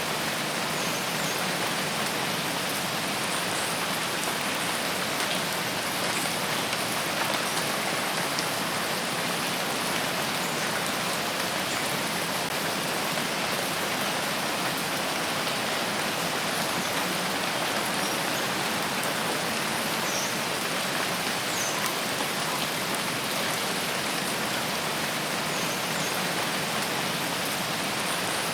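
Steady, even rain falling on foliage and surfaces, a dense hiss of drops with no let-up.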